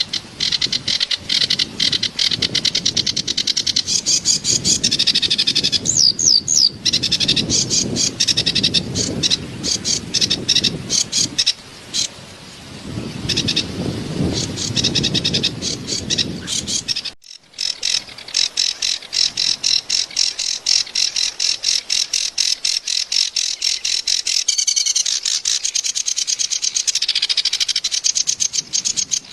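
Kerak basi (reed warbler) singing a harsh, chattering song of rapidly repeated high notes, over the low rush of flowing water. There is a brief break about 17 seconds in, after which the water is much fainter and the song carries on.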